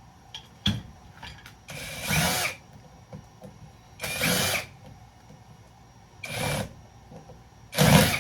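Cordless power drill/driver run in four short bursts, spinning up and winding down each time, backing out flathead screws from a breaker panel. A sharp click comes just under a second in.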